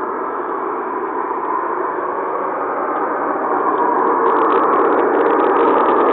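Loud, steady rushing roar from what appears to be a burst industrial-size boiler, with a jet-like quality. It swells louder about four seconds in.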